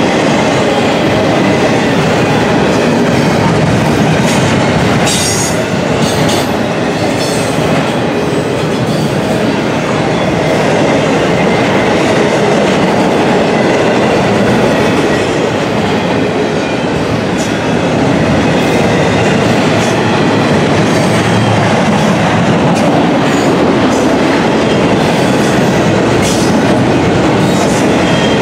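Double-stack intermodal freight train's well cars rolling past close by: loud, steady noise of steel wheels on rail, with scattered clacks as the wheels pass over rail joints.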